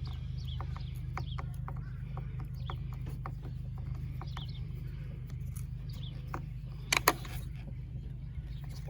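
Light clicks and taps of tools and plastic parts being handled as a Poulan Pro chainsaw is taken apart, with two sharp knocks about seven seconds in. A steady low hum and short bird chirps run underneath.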